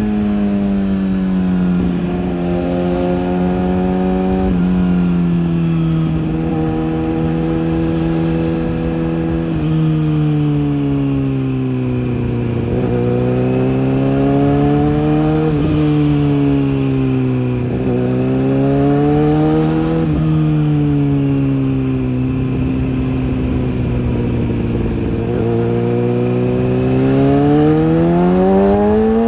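Kawasaki ZX-6R inline-four engine running through its exhaust, its pitch drifting down and rising again several times with the throttle. Near the end the revs climb steadily.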